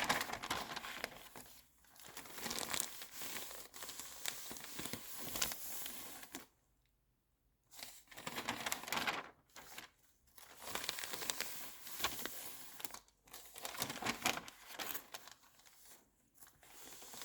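Magazine pages being turned and handled, paper rustling and crinkling in bursts, with a short silent pause about six seconds in.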